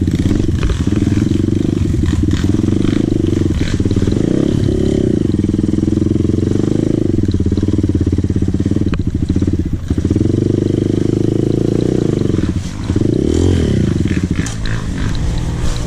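Dirt bike engine running under way. The revs dip briefly and rise again about two thirds of the way through, then drop and climb once more a few seconds later.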